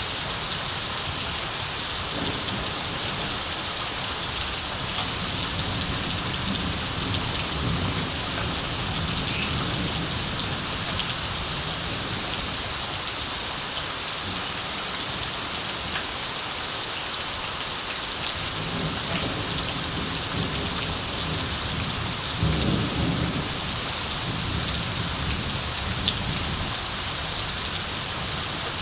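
Steady rain falling, with low rolls of distant thunder rumbling under it in the first half and again later, the strongest roll about three-quarters of the way through.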